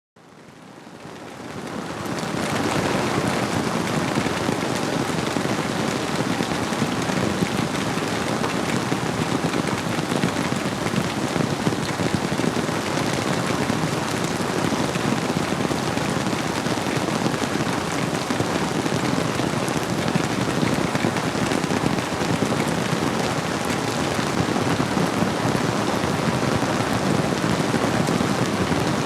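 Steady rainfall blended with a flowing river: an even, unbroken wash of water noise that fades in over the first two seconds or so.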